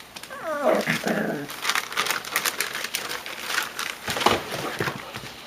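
Labrador puppies: one gives a short whine falling in pitch about half a second in, followed by a busy run of crinkling and scratchy clicks as the pups move about and play.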